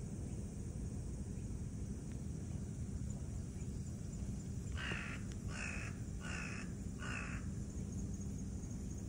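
A bird calling four times in quick succession, short harsh calls about half a second each, over a steady low background noise.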